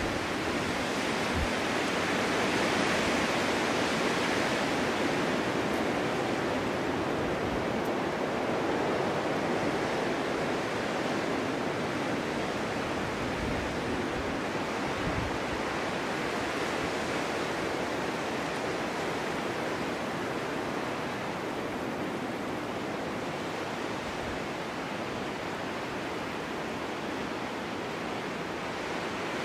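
Snowstorm wind blowing steadily, a broad even hiss that swells for a few seconds near the start and then slowly eases.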